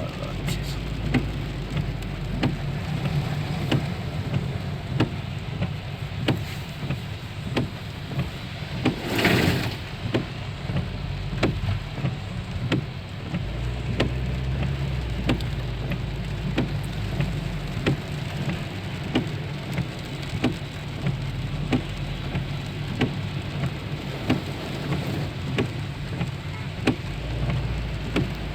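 Rain falling on a vehicle, individual drops ticking irregularly over a steady low rumble, with a brief swell of noise about nine seconds in.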